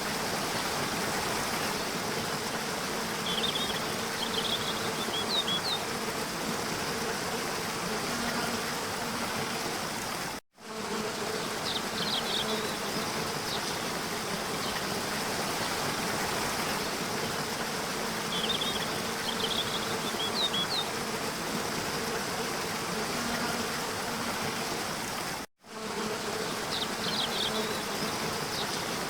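Steady rush of falling water from a waterfall, with a faint steady hum under it and short clusters of high bird chirps every few seconds. The sound cuts out sharply twice, about fifteen seconds apart, where the looped recording restarts.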